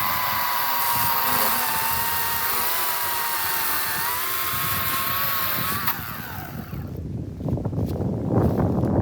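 EGO 56-volt battery chainsaw with an 18-inch bar running, a steady electric whine that sags a little in pitch as it cuts, then winds down and stops about six seconds in. Irregular knocks and rustling follow near the end.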